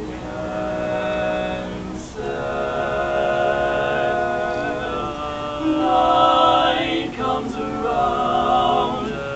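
Music: several voices singing sustained harmony chords in close vocal-group style, with the chord changing a few times.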